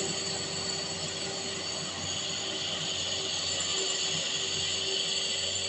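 A truck's diesel engine labouring steadily up a steep grade, with a high-pitched whine running over it.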